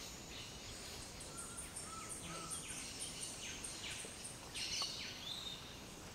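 Birds calling over a steady background hiss: many short high chirps, a quick run of repeated notes, and a few falling whistles.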